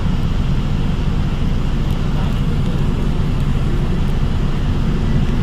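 Steady low rumble of the drive and road noise inside an ADL Enviro 400 hybrid double-decker bus, whose BAE Systems HybriDrive pairs a small diesel engine with electric motors.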